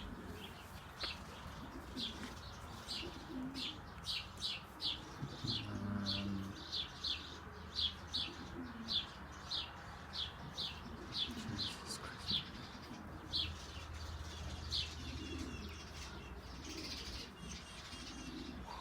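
A small bird chirping over and over in short high chirps, about two a second, thinning out near the end, with pigeons cooing low underneath.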